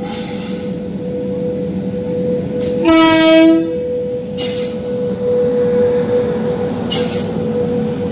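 Passenger train rolling slowly into a station behind a WAP-5 electric locomotive, with a steady high whine and a few short hisses. The horn sounds once, a single short blast about three seconds in.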